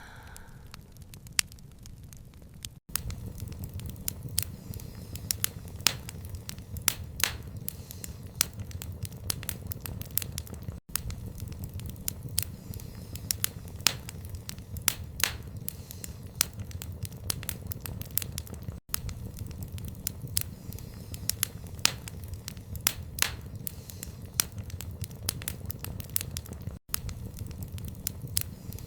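Wood fire crackling in a stone fireplace: irregular sharp pops and snaps over a steady low rumble of the flames. The sound drops out for an instant about every eight seconds.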